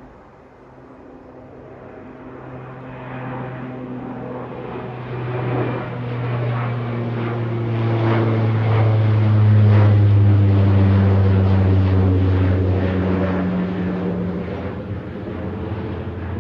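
A departing airliner's engines passing by. The steady rushing drone swells to its loudest about ten seconds in, then eases off. Its tones slide slowly down in pitch as it goes past.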